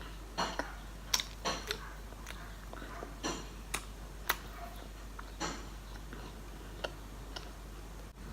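Close-up crunching of toast being chewed: irregular crisp clicks and crackles, thicker in the first half and thinning out later.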